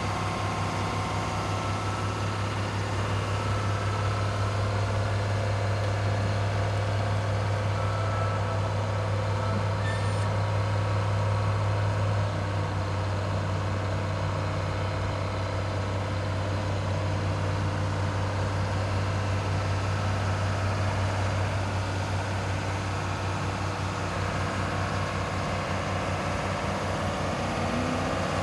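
Cat 3116 six-cylinder diesel engine of a Barber Greene BG260B asphalt paver running steadily with a deep even hum, easing slightly about twelve seconds in.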